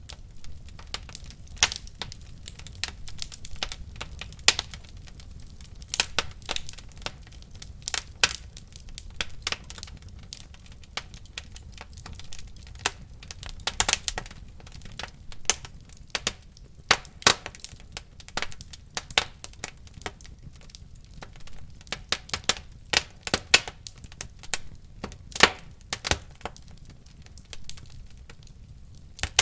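Wood fire burning in a fireplace, crackling and popping irregularly over a low, steady rumble of flame.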